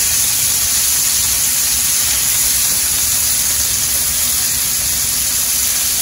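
Scallops searing in butter and olive oil in a hot frying pan: a steady, even sizzle.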